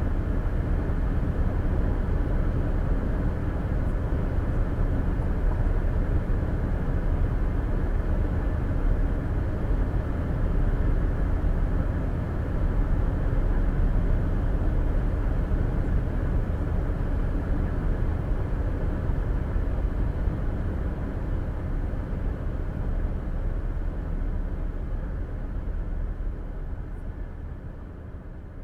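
Steady road noise of a car cruising on the interstate, tyre and engine rumble heard from inside the cabin through the dash cam's microphone; it fades out near the end.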